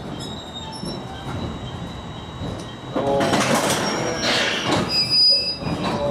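JR Kyushu 813 series electric train moving off after being uncoupled from the train behind it. About three seconds in, the sound jumps louder with a brief whine from the running gear and a burst of hissing, squealing train noise.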